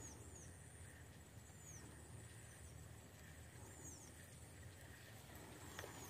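Faint outdoor ambience: a bird repeating short, high, downward-sliding chirps every second or two over a steady high insect drone, with a light click near the end.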